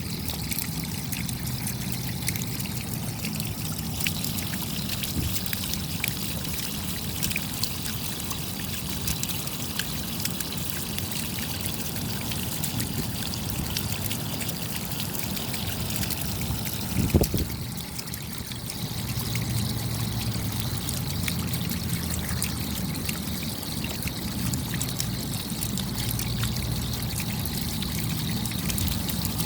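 Steady rain, with many small drops ticking and water trickling and pouring. One louder low knock comes a little past halfway through.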